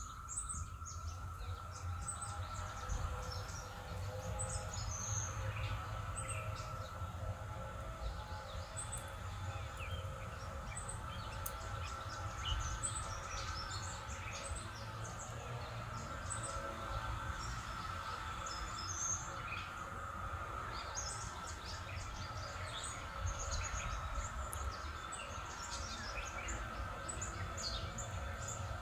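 Birds chirping and twittering on and off over a steady high-pitched drone and a low rumble.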